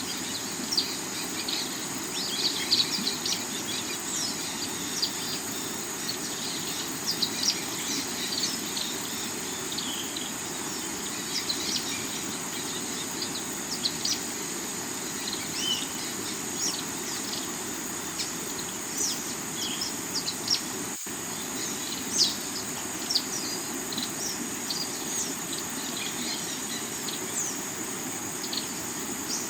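Steady rush of a rocky river, with many short bird chirps scattered throughout and a constant high insect buzz.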